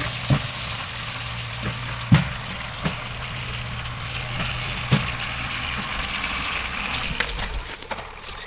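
Forestry winch and the engine driving it running steadily, with about five sharp knocks or clanks; the operator puts this straining down to the winch clutch slipping when the winch can't cope with the load. The steady hum fades about six seconds in.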